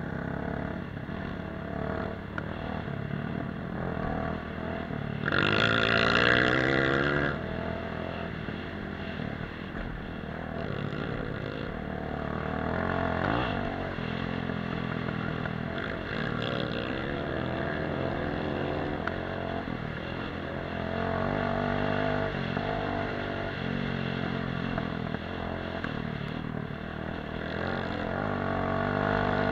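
Small off-road motorcycle engine running while riding, its pitch rising and falling with the throttle. It revs much louder about five seconds in for roughly two seconds.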